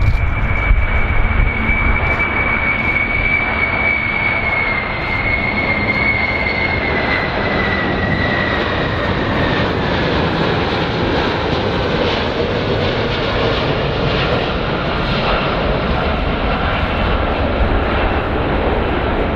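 Airplane engines running with a steady rush of noise and a high whine that slowly drops in pitch over the first half.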